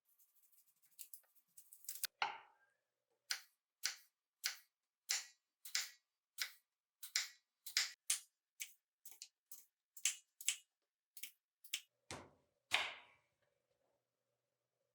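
Knife cutting a crisp green apple on a cutting board with sharp, even strokes, about two a second, ending with two heavier knocks.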